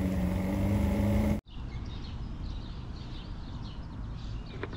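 Boat motor running steadily underway, cut off abruptly about a second and a half in. Then quieter open-air background with small birds chirping.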